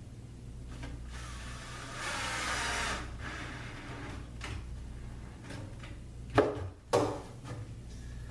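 A cordless drill briefly driving a screw into a drawer slide on the cabinet, followed by small handling clicks and two sharp knocks about a second apart near the end.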